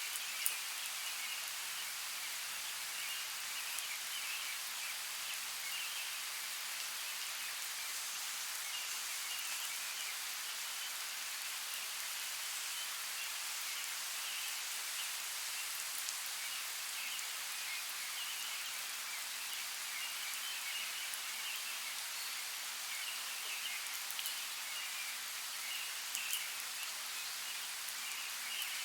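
Steady, even hiss of running water, with scattered faint high chirps and a few light ticks.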